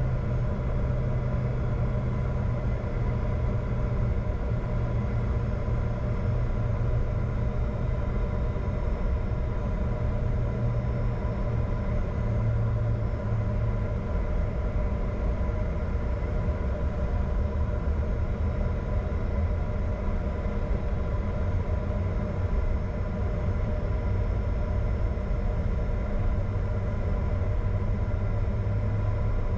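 Steady cockpit noise of a Bombardier Challenger 605 business jet: a continuous low rumble with the even hum of its engines and a few steady whining tones over it.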